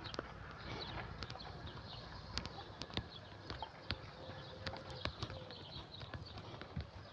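Irregular sharp clicks and taps, a few each second, with faint short high chirps in the background.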